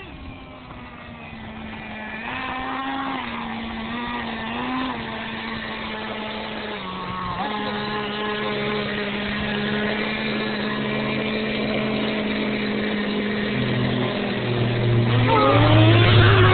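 Small nitro glow engine of an RC monster truck running at a steady high pitch, with a few brief pitch rises a few seconds in. Near the end it gets louder and revs, the pitch sweeping up and down.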